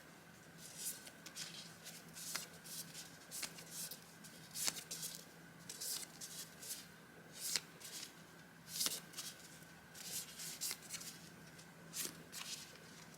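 Paper being handled: irregular crisp rustles and crackles as sheets of vintage journaling paper and stickers are picked up, shuffled and laid down, with a few sharper snaps. A faint steady hum sits underneath.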